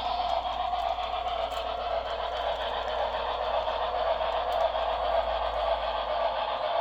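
Model steam train, the Santa Fe Blue Goose 3460, running along its track: a steady rushing rattle of wheels and running gear.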